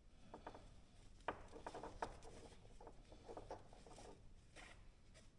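Faint handling noises: scattered small clicks and rubbing, as an adjustable strap on a UTV cargo net is worked out of its buckle.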